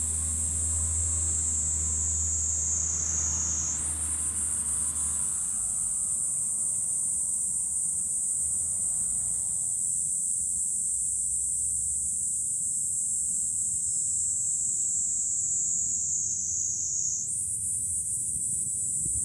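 Cicadas singing in a loud, steady, high-pitched chorus whose pitch sags slowly and then jumps back up, about four seconds in and again near the end. A low rumble underneath fades out about five seconds in.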